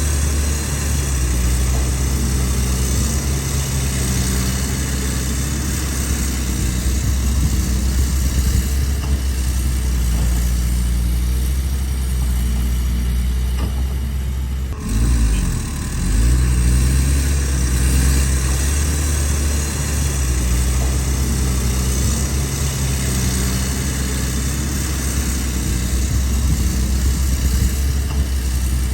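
Excavator's diesel engine running steadily with a low, even hum. About halfway through it dips briefly and wavers in pitch, then settles back to the same steady note.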